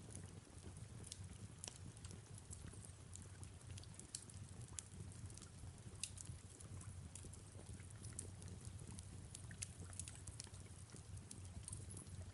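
Fireplace crackling, with irregular small pops and snaps over a soft steady hiss of rain.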